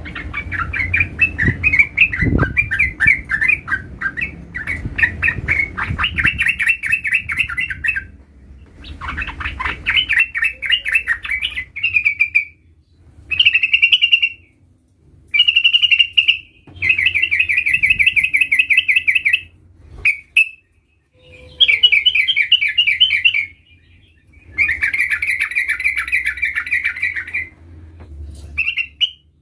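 Yellow-vented bulbul (trucukan) singing rapid chattering trills in phrases of one to three seconds, with short pauses between them.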